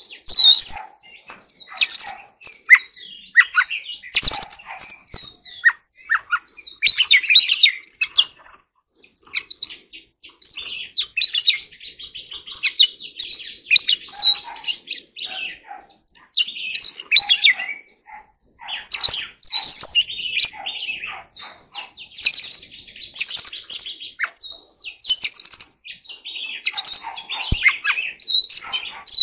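Oriental magpie-robin singing: a long run of varied high whistled phrases and quick chattering notes, broken by short pauses.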